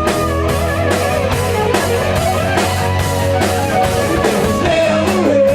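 Live rock band playing an instrumental passage: electric guitars over bass and a steady drum-kit beat, with a lead guitar melody bending in pitch near the end.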